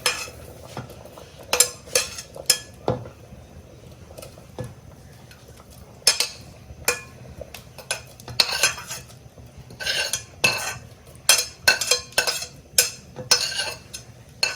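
Metal spoon clinking and scraping against a cooking pot while stirring. The sharp clinks come scattered at first, then thick and fast from about eight seconds in.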